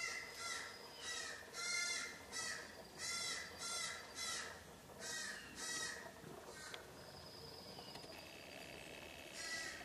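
Harsh, rasping bird calls repeated about twice a second, stopping about six seconds in, followed by a faint steady high whine.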